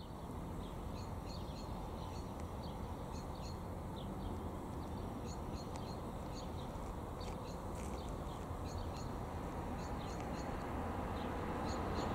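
Birds chirping and singing in short, irregular calls over a steady low outdoor rumble that grows slightly louder near the end.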